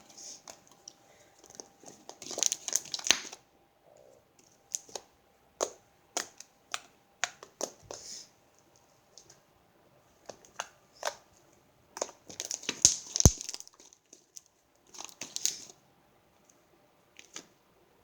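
Fluffy slime made with shaving cream being worked by hand: irregular sticky clicks and pops, with three longer bursts of crackling.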